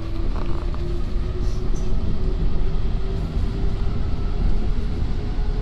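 Driverless metro train running with a heavy rumble and a motor whine that slowly rises in pitch as it picks up speed.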